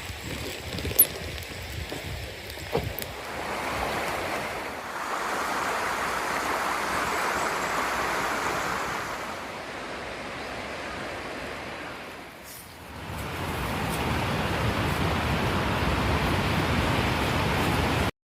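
Bonfire of wet cedar leaves burning: a few sharp crackles in the first seconds, then a steady rushing hiss that dips briefly and returns, cutting off suddenly at the very end.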